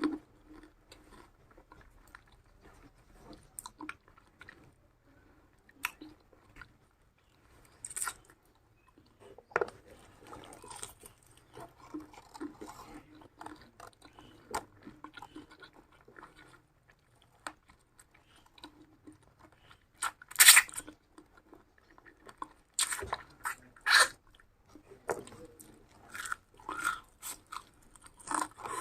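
A person biting and chewing food with crunching, close to the microphone, in irregular bursts with quiet pauses between. The loudest crunches come about twenty seconds in and again a few seconds later.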